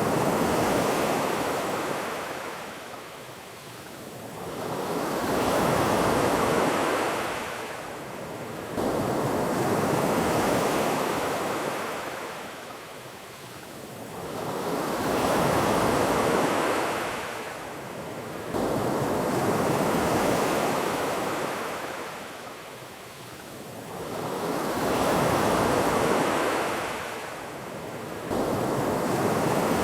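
Ocean waves breaking and washing up a beach in a slow rhythm, each swell of rushing surf rising and falling away about every five seconds.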